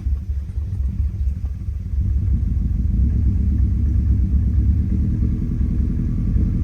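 Subaru EJ25 flat-four engine idling just after start-up, a steady low rumble that grows a little louder about two seconds in. It is running with a cylinder 4 misfire that the owner thinks is still there.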